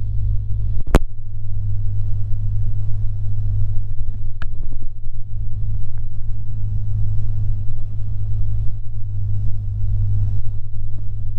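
Cessna 150's four-cylinder engine and propeller droning steadily in flight, a low rumble, with a sharp click about a second in and a fainter click at about four and a half seconds.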